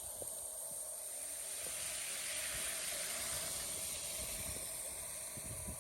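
Steady hiss of falling water, swelling slightly about halfway through.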